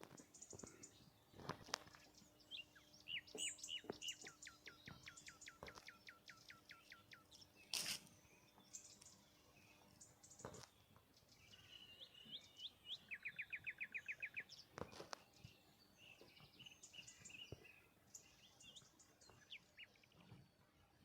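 Wild birds singing: a run of about ten quick falling notes a few seconds in, a fast even trill about halfway through, and scattered chirps, with a few faint clicks.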